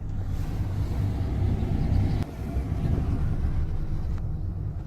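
Steady low rumble of a ferry underway, its engines droning, dropping abruptly in level about two seconds in.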